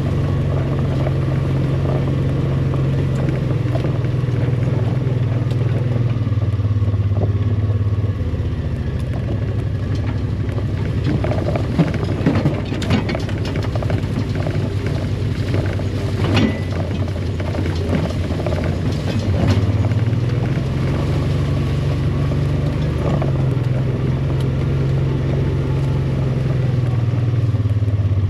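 A vehicle engine running steadily while driving. The engine note drops about eight seconds in and climbs back up around twenty seconds, with scattered knocks and rattles in the middle.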